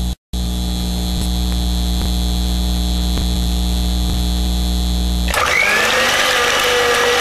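Steady electrical mains hum with a thin high whine above it: the residual current in a plugged-in blender before it is switched on. About five seconds in, the Waring Professional blender's motor switches on suddenly and runs, its whine rising briefly and then holding steady.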